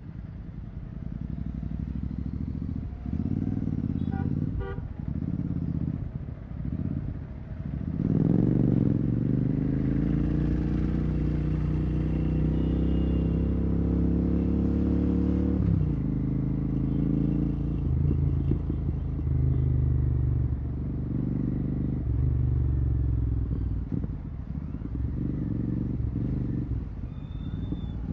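Royal Enfield Continental GT 650's parallel-twin engine through a Red Rooster exhaust with the dB killer removed. It burbles in choppy bursts on and off the throttle, then accelerates from about eight seconds in with the pitch rising for several seconds, and settles into a steady cruise. Vehicle horns toot briefly in the traffic.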